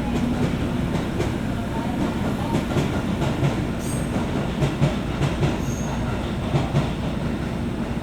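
Inside a JR West 201 series electric train's motor car: a steady low rumble as the car runs, with wheels clicking over rail joints through the middle and a couple of brief high wheel squeals.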